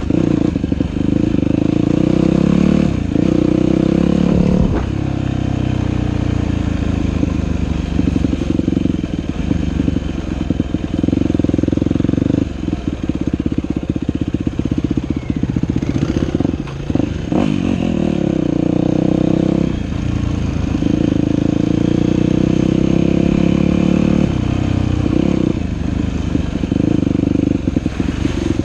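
Dirt bike engine running hard along a trail, its pitch rising and falling with the throttle. There are several brief drops in revs where the throttle is rolled off.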